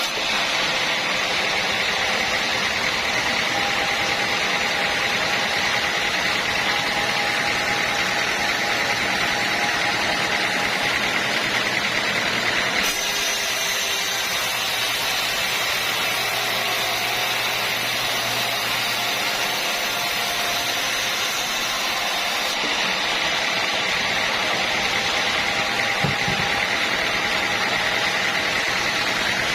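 Sawmill machinery running steadily with a high whine. The sound changes abruptly about 13 seconds in and again about 23 seconds in.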